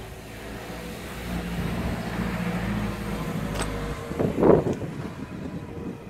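A motor vehicle's engine running steadily, growing louder and then stopping about four seconds in, followed by uneven bursts of rumbling noise, the loudest just after.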